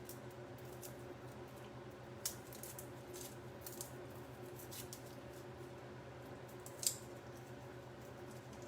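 A few short, faint clicks and crackles from food and utensils being handled on a kitchen counter, the loudest about seven seconds in, over a steady low hum.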